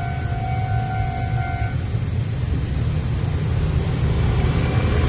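Level-crossing warning alarm ringing and then stopping suddenly about two seconds in, over a steady, loud, low rumble of passing vehicles.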